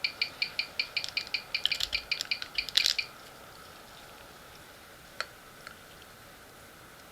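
Mechanical wristwatch ticking at about five and a half beats a second, the fast 19,800-beat rate of a magnetized movement that should run at 18,000. The ticking gives way about a second and a half in to a flurry of irregular clicks and handling knocks, then two faint clicks.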